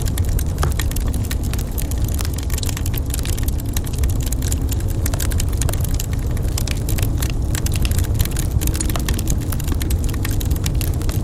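Wood fire in a fireplace crackling, with many sharp snaps and pops over a steady low rumble.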